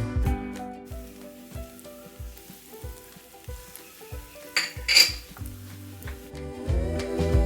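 Egg cutlets sizzling as they fry in oil, with two sharp clinks about five seconds in. Background music with a steady beat plays throughout.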